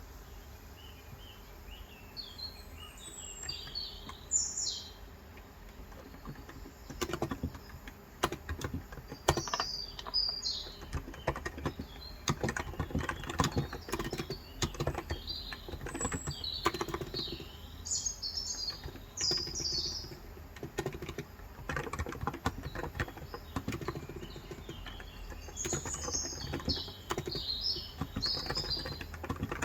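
Typing on a Cox Endeavour electro-capacitive keyboard with light 35 g switches: a steady patter of keystrokes that starts about seven seconds in. Small birds chirp and trill in short clusters throughout.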